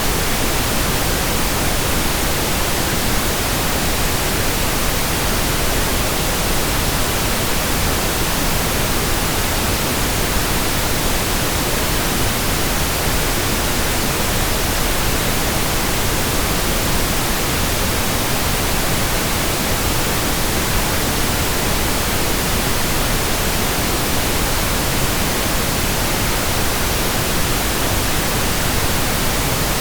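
Steady pink noise: an even, unchanging hiss spread across all pitches, with the weight toward the low end.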